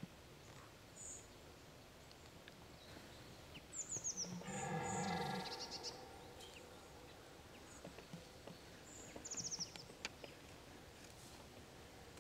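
Forest ambience with small songbirds chirping high and thin, twice running into short descending trills. About four seconds in, a louder pitched call lasts about a second and a half.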